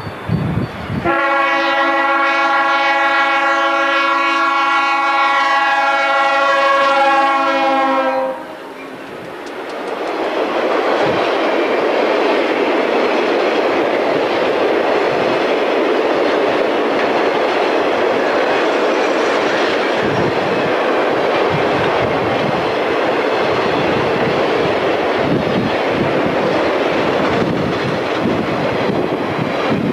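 Diesel locomotive air horn sounding one long blast of about seven seconds, dropping slightly in pitch as it cuts off. Then the freight train rolls by close at hand: a loud, steady rumble of the welded-rail flatcars with repeated wheel clicks and knocks over the rail joints.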